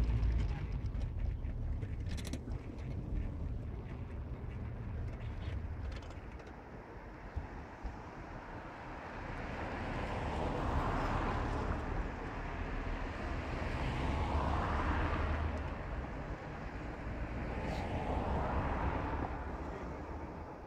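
Car on the move: steady low engine and road rumble, with three long swells of tyre noise that rise and fade in the second half.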